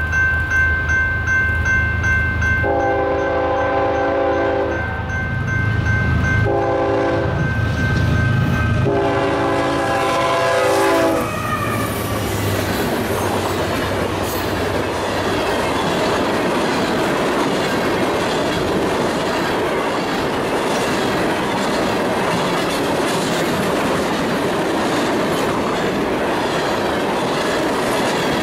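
Diesel freight locomotive sounding its horn for the grade crossing as it passes, in three blasts (long, short, long) over a low engine rumble and a high steady ringing. After the last blast, about eleven seconds in, a string of loaded tank cars rolls by with the steady rumble and clatter of wheels on rail.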